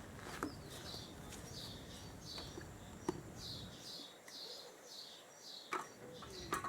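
A small bird chirping over and over, a short high call about two or three times a second, with a few sharp clicks or knocks in between.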